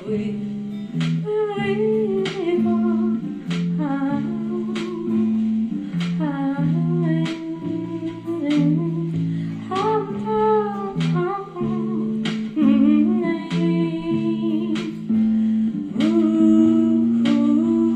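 A voice hums a wordless melody over acoustic guitar played in a steady rhythm, as live song accompaniment.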